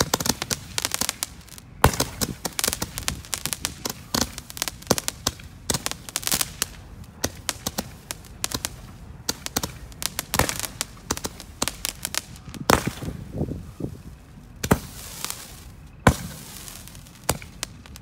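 Small consumer fireworks firing glowing stars upward: a dense, irregular run of sharp pops and crackles, with a few louder bangs in the last third.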